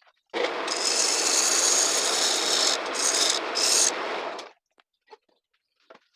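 Lathe tool cutting into a spinning log of pruning wood on a homemade wood lathe, a steady scraping hiss that stops suddenly about four and a half seconds in, followed by a few faint clicks.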